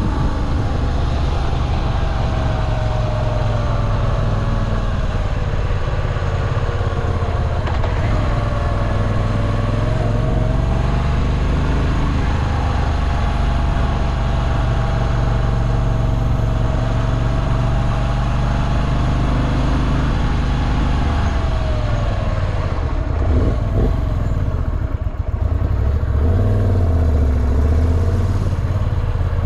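Moto Guzzi V7 Classic's air-cooled transverse V-twin running under way on the road, its note shifting up and down with speed. It eases off a little past twenty seconds, then pulls harder again near the end.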